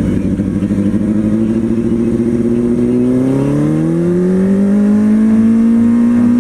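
Kawasaki Ninja ZX-6R 636's inline-four engine running at steady revs while riding. About three seconds in, the revs climb smoothly and then hold higher.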